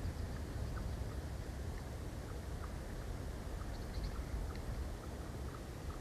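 Steady low rumble of wind buffeting an outdoor camera microphone, with faint short chirps of small forest birds scattered through it.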